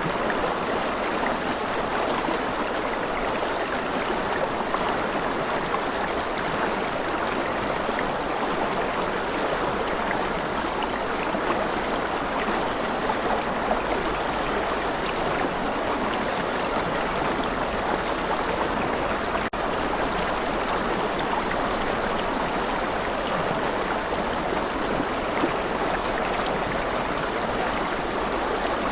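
Rushing river water: a steady, even rush of flowing water, with a brief dip in level about two-thirds of the way through.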